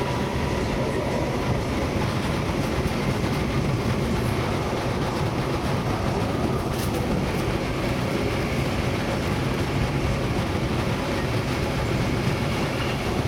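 Munich S-Bahn class 420 electric multiple unit running at speed, heard from inside the passenger car: a steady, mostly low running noise of wheels on rail and running gear, with a faint high tone over it.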